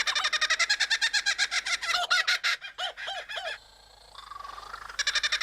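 Superb lyrebird singing a run of mimicked bird calls. A fast stream of repeated notes gives way to slower arching notes and a short pause about three and a half seconds in. A rising whistle follows, then rapid notes again.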